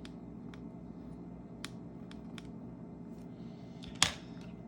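Scattered light clicks and taps of small precision screwdrivers and tools being handled and picked through, with one sharper click about four seconds in, over a low steady hum.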